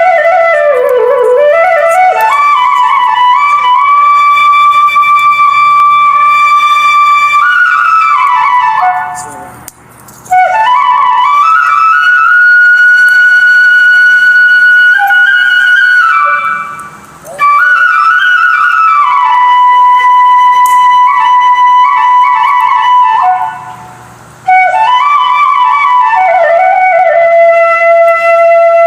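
Solo flute melody of long held notes with sliding ornaments between them, in four phrases separated by brief pauses.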